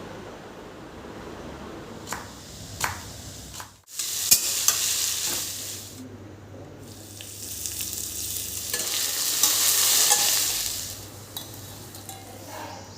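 Food sizzling in a hot pan, preceded by a couple of light clicks. The sizzle starts abruptly about four seconds in, swells to its loudest around ten seconds and fades near the end.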